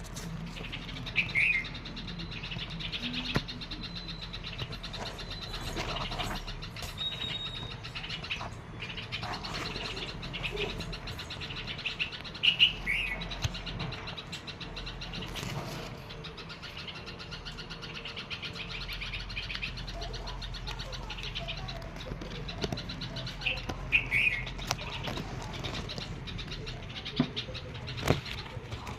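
Baby birds chirping: short high chirps every several seconds over a steady background. A few brief sharp sounds break in, the loudest about halfway through.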